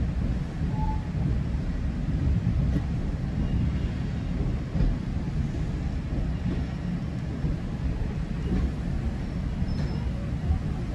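Steady low rumble of a GO Transit bilevel passenger coach in motion, heard on board as the train runs along the track.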